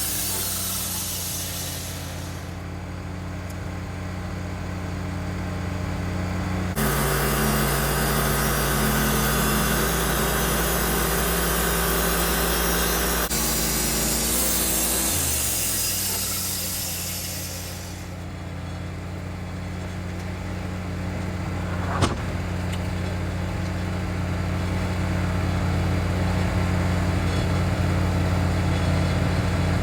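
Sawmill's engine running steadily, its note changing about seven seconds in and changing back about fifteen seconds in, with a hiss that comes and goes. A single sharp knock about 22 seconds in.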